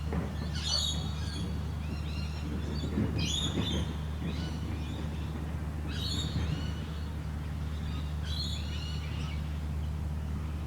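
Birds calling in short clusters of high, arched chirps, about one cluster every two to three seconds, over a steady low hum.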